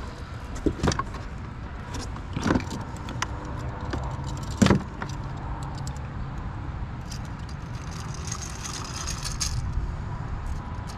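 Handling a freshly caught bass and fishing tackle aboard a kayak: a few sharp knocks, the loudest a little under five seconds in, then a light metallic jingle of lures and hooks near the end.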